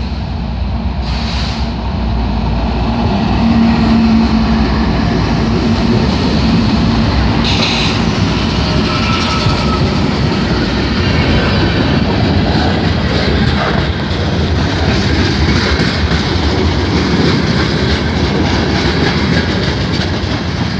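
Freight train passing close by: the diesel engines of a GE ES40DC and two C44-9W locomotives run past in the first seconds, then the freight cars roll steadily by on the rails.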